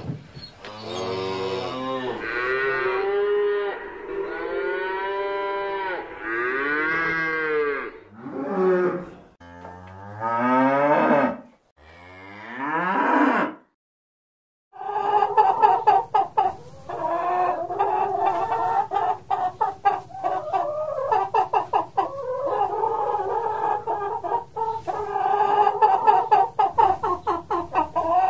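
Cattle mooing, a series of long moos that rise and fall in pitch. After a short silence about halfway through, chickens take over with a continuous run of quick, overlapping clucks.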